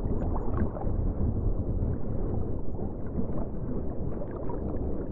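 Low, steady underwater rumble of moving water, with faint scattered bubbling ticks.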